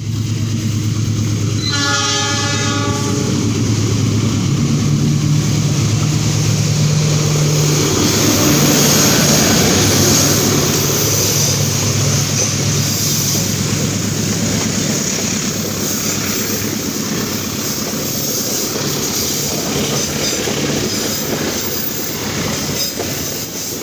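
A train horn sounds once, for about a second and a half, near the start over a deep steady hum. The train then goes by with a loud, continuous rumble and rattle of wheels on the rails.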